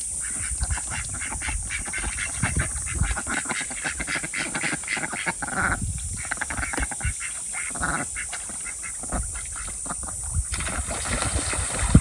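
Domestic ducks quacking repeatedly, many short calls overlapping.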